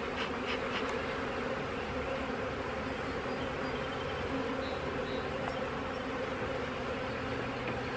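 Many honey bees buzzing as a steady, even hum around an opened nuc box and hive.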